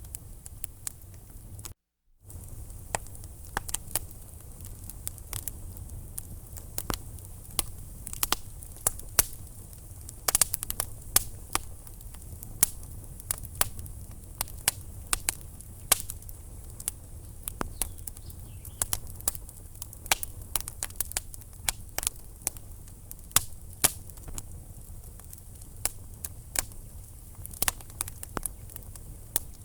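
Wood fire burning in a fireplace: logs crackling and popping in irregular sharp snaps over a low steady rumble of the flames, with a quick flurry of pops about ten seconds in. The sound cuts out for a moment about two seconds in.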